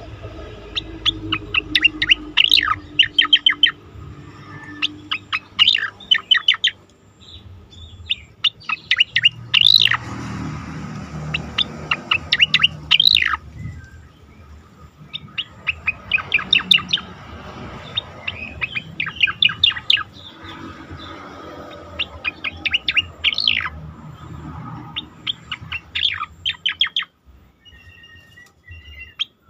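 Cucak koreng singing: bursts of rapid, steeply falling whistled notes, several to a burst, repeated every second or two with short pauses between, over a low background rumble.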